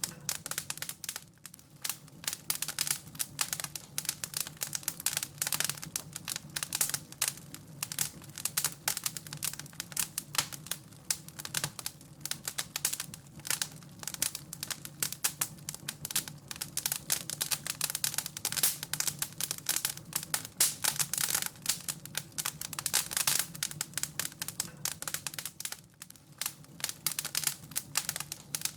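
Wood fire in a fireplace crackling, with dense, irregular snaps and pops of varying loudness.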